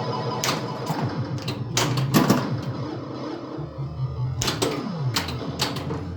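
A 1981 Bally Centaur pinball machine in play: sharp mechanical clacks from its coils and ball hits, irregularly spaced, over the game's electronic sound effects, with a falling electronic tone about five seconds in.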